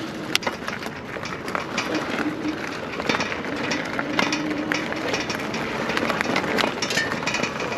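Electric bike's tyres rolling over gravel and rough debris, with continuous crunching and crackling and the bike rattling.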